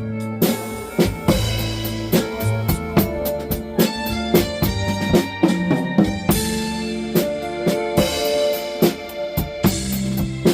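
Drum kit played in a blues groove, kick, snare and cymbal strikes several times a second, over a backing track with sustained bass and chord notes.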